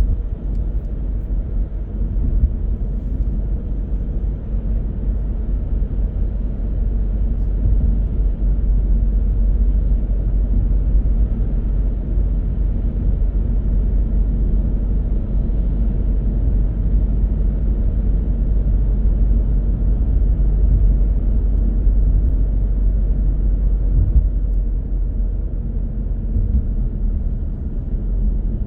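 A car driving at a steady pace: continuous low rumble of road and engine noise with no distinct events.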